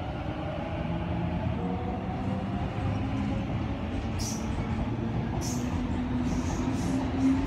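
Sydney Trains double-deck electric suburban train running beside the platform: a steady rumble with humming tones, and a few short hisses from about four seconds in.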